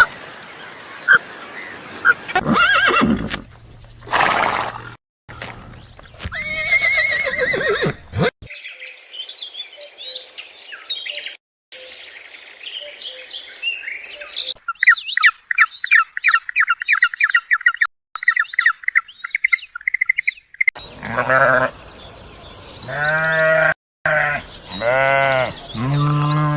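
Farm animal calls from several short clips cut together: chirps and squawks, then a fast run of repeated high-pitched bird calls for several seconds, then a few long, low-pitched animal calls near the end.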